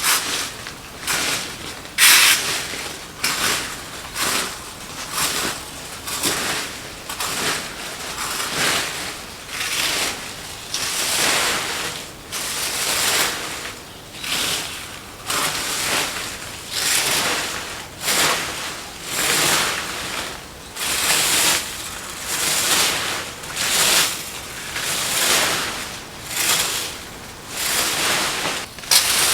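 Rhythmic scraping strokes, roughly one a second, each a short rasp of similar length.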